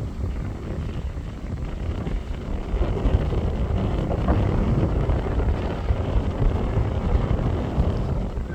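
Off-road competition safari vehicle driving, its engine running with an uneven rumble that grows louder about three seconds in.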